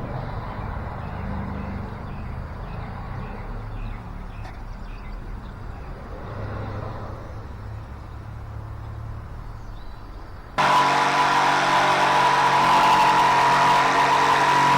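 A low steady rumble, then an abrupt cut about ten seconds in to a loud motor running steadily with a whine.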